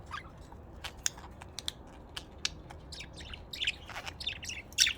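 Pet budgerigars chirping: a scatter of short, sharp, high chirps in quick succession, the loudest just before the end.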